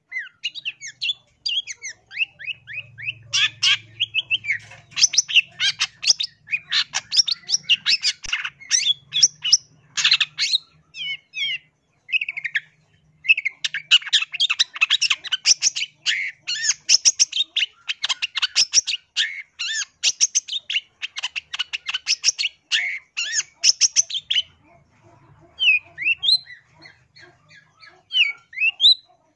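Long-tailed shrike (cendet) singing: long runs of rapid, high chattering notes, with a short break about halfway through and a sparser stretch of single calls near the end.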